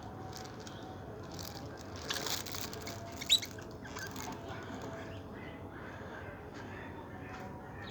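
Canaries chirping: short, scattered high calls, with one sharp, loud chirp about three seconds in.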